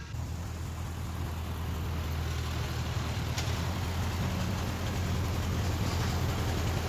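An engine running steadily with a deep hum, growing gradually louder.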